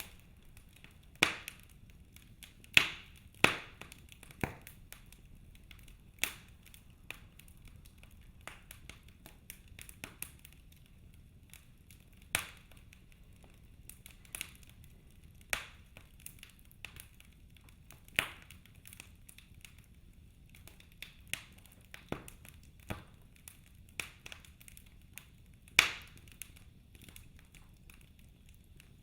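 Wood fire in a fireplace crackling, with sharp irregular pops every second or few over a faint low hiss.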